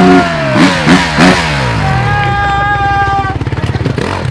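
Motocross bike engine running at high revs. Its pitch falls steeply about half a second in, with a few sharp blips, then it holds a steady high note for about a second before turning rougher and quieter.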